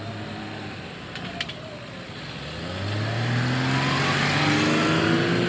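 Garbage truck engine accelerating: quiet at first with a couple of faint clicks, then from about three seconds in the engine note rises in pitch and gets louder.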